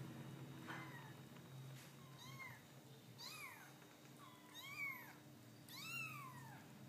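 Young kittens giving faint, high, thin mews, about six short calls spread a second or so apart, each rising and falling in pitch, the later ones a little louder.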